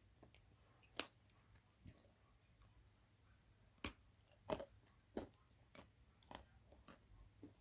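Dry blue clay being bitten and chewed: a series of crisp crunches at uneven intervals, about eight in all. The loudest comes about four and a half seconds in.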